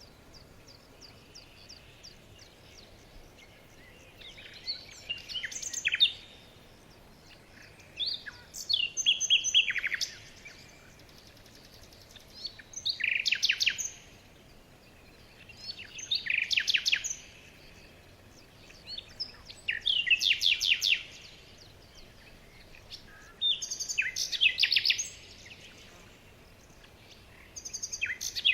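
A small bird singing the same short phrase over and over, about every four seconds. Each phrase is a second or so of fast, high chirping notes run together into a trill.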